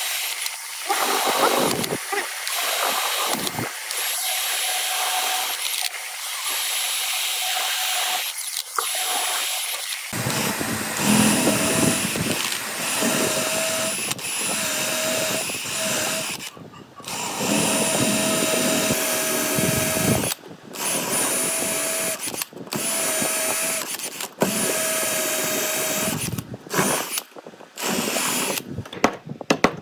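Woodworking power tool, drill-like, running in bursts of a few seconds with short stops between, a steady whine riding on it. The runs grow shorter and more broken near the end.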